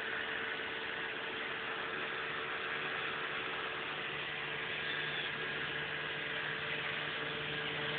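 Small boat's motor running at a steady speed: an even hum over a wash of noise.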